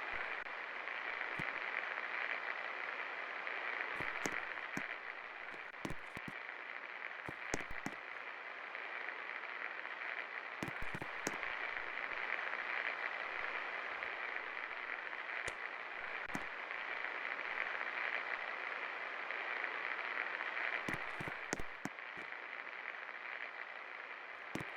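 A 24-inch Best Electric Works Alpha ceiling fan running: a steady hiss of moving air, with scattered faint clicks.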